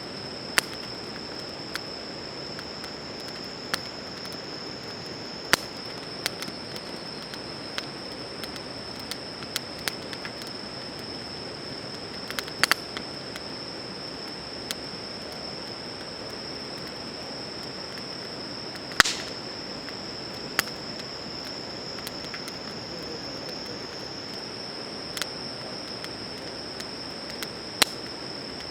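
Wood fire crackling, with sharp irregular snaps and pops, the loudest about 19 seconds in, over a steady high-pitched chirring of insects.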